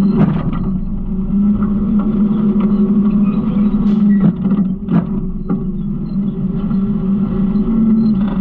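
Garbage truck's diesel engine running steadily, with a few sharp knocks and rattles about four to five seconds in.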